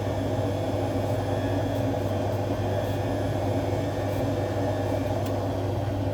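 Hotpoint Aquarius WMA58 washing machine on a spin cycle, running with a steady hum and grinding from its drum bearings: the bearings are worn out.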